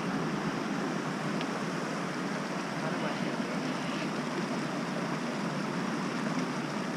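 Steady rush of water falling over a waterfall's cascades.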